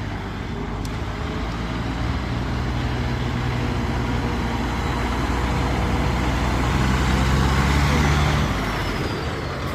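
Heavy truck's engine running with a deep hum, growing louder until about eight and a half seconds in, then dropping off.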